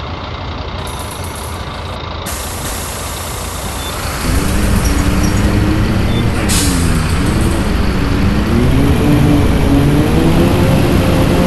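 Scania bus engine running low and steady, then about four seconds in it picks up and revs as the bus pulls away, its pitch dipping and climbing through gear changes. A short hiss of air sounds about halfway through.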